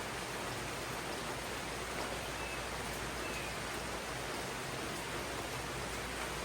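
Steady rain falling in a tropical jungle, an even hiss with no breaks.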